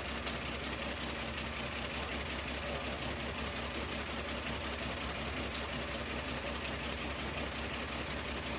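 1975 Plymouth Duster engine idling steadily with a fast, even pulse, running while it warms up.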